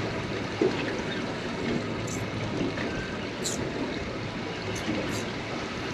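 Water lapping and trickling around a small boat's hull, a steady wash with a few short high hisses.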